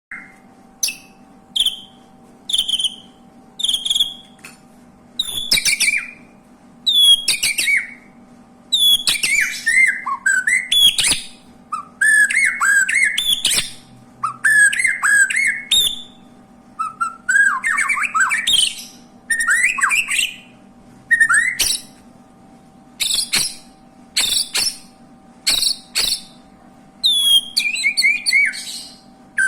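Canary singing in short bursts of high chirps and whistles, a phrase every second or two, many notes sweeping down in pitch.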